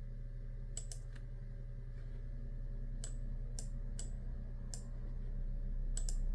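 Computer keyboard keys being pressed: about nine sharp clicks in small groups, over a steady low hum that grows a little louder near the end.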